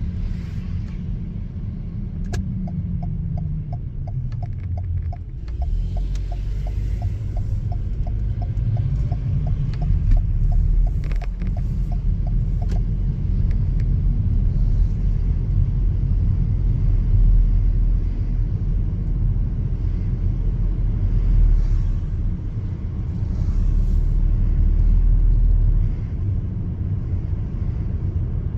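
Car driving, heard from inside: a steady low rumble of engine and road noise. For about ten seconds near the start, a run of light, evenly spaced ticks, a few per second, sits over it.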